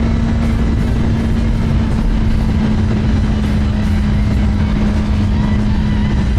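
Kawasaki ZX10R's inline-four engine running steadily at an even speed while riding, with a constant hum.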